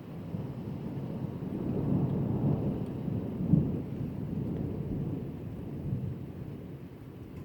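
Thunder rolling: a long low rumble that builds over the first two seconds, peaks with a sharper clap about three and a half seconds in, then slowly fades.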